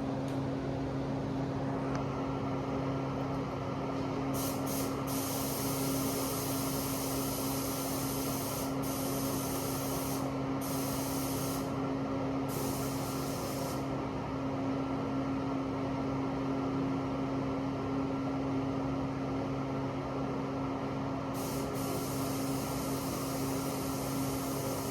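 Paint booth fan running with a steady hum, while a paint spray gun hisses in on-off passes of air and paint: several short and longer spells from about four seconds in to about fourteen seconds, then again near the end.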